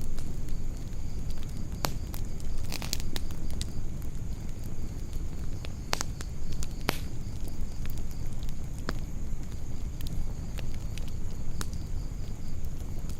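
Wood campfire burning, with sharp crackles and pops at irregular moments (a quick cluster about three seconds in, two loud pops around six and seven seconds) over a steady low rumble. A faint steady high-pitched tone runs underneath.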